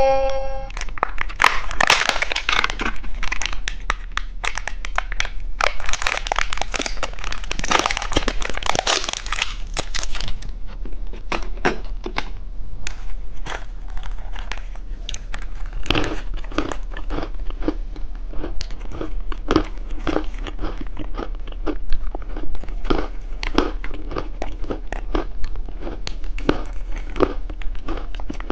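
Plastic candy wrapper crinkling and being torn open for the first ten seconds or so, then close-miked crunching and chewing of the candy, a string of separate bites and crunches.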